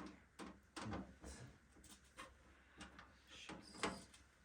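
Scattered light clicks and taps of small screws and a screwdriver as a motherboard is screwed into a PC case, about eight quiet strikes spread over a few seconds.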